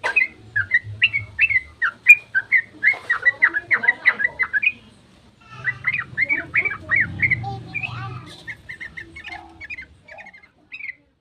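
Yellow-vented bulbul singing a fast, continuous run of short notes, breaking off briefly about five seconds in, then resuming and thinning out near the end.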